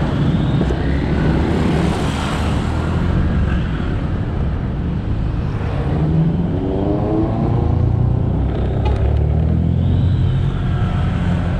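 Motorcycle engine running under way, a steady low rumble mixed with wind and road noise. About six seconds in, an engine note rises in pitch for a couple of seconds.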